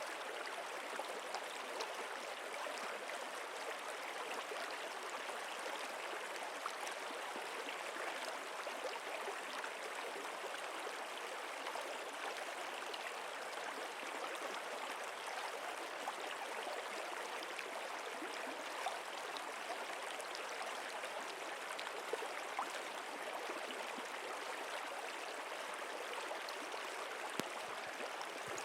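A stream flowing steadily: an even rush of water with occasional tiny splashes.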